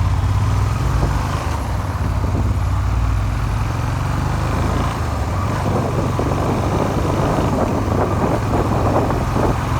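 Suzuki SV400 motorcycle engine running steadily under way, kept low in the revs. The engine has had a makeshift crankshaft repair and is known to knock.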